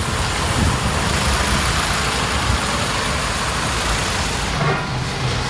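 Heavy truck on the move: a low engine rumble under a steady rushing road and wind noise.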